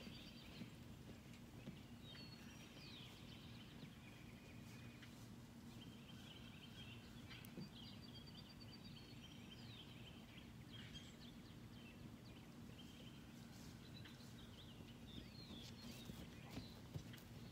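Near silence of wet outdoor air: faint bird chirps and short calls come and go over a low steady hum, with a few faint clicks.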